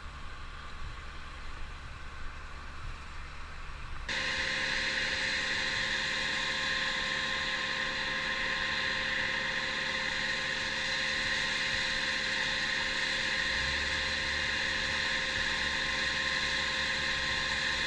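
An engine running at a steady speed: a faint low hum at first, then about four seconds in a much louder, even engine sound cuts in and holds without change.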